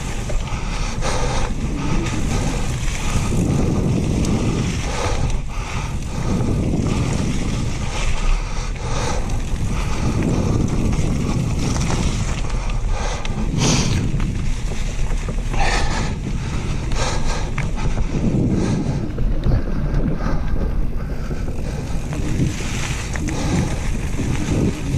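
Wind buffeting the microphone in a steady low rumble, with scattered sharp knocks and rattles throughout.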